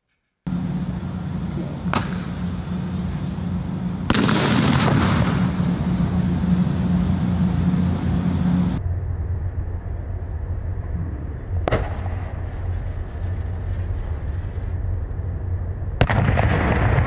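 Consumer fireworks going off on a mannequin: sharp bangs over continuous rushing noise, one about two seconds in, a bigger one about four seconds in, another about halfway through and a large bang near the end.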